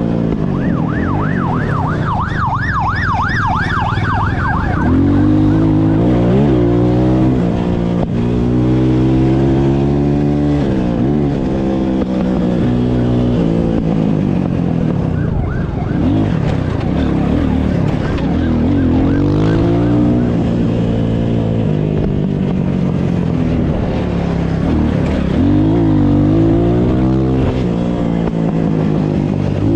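A siren warbling fast in yelp mode for the first few seconds over a running engine. The engine then revs up and drops back again and again as it accelerates hard through the gears.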